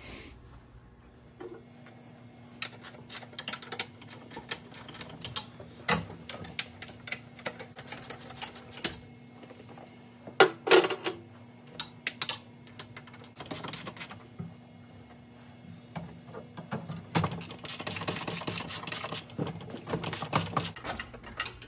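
Hand tools working the seat's mounting bolts loose: quick metal clicks and a run of ratcheting near the end, with a few louder metal clanks, over a steady low hum.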